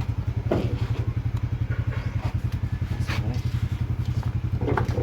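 A small engine idling steadily with an even, fast pulse, with a couple of brief faint voices over it.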